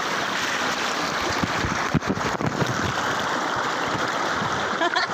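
Steady rushing of a flowing river, with a few dull low knocks about two seconds in.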